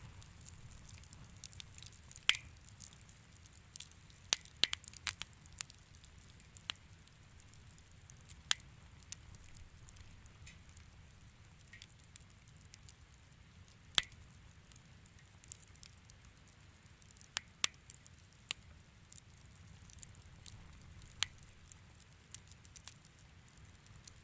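Wood fire crackling in a fireplace: irregular sharp pops and snaps over a faint low hiss of burning.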